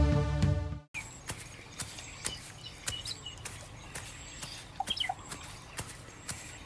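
Background music cuts off abruptly about a second in, giving way to a forest ambience: scattered short bird chirps over a faint hiss, with light ticks.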